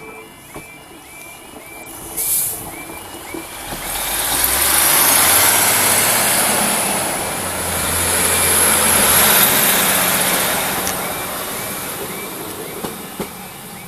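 A train passing through a station: its rumble and rush of wheel and rail noise swell about four seconds in, peak twice and fade out, with a faint high whine rising in pitch as it goes by. A short hiss comes about two seconds in.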